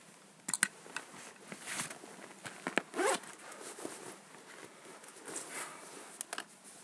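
A zipper being pulled in several short strokes, mixed with clicks and rustles of camera gear being handled; the loudest rasp comes about three seconds in.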